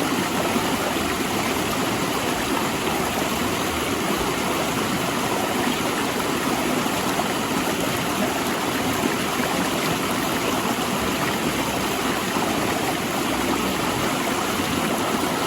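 Mountain river rushing over and between large rocks: a steady, loud flow of water.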